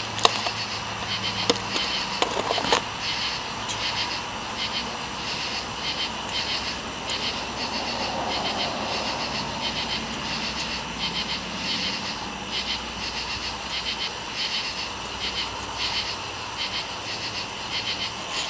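Outdoor insect chorus chirring steadily in even pulses, with a few short handling clicks and rubs about two seconds in.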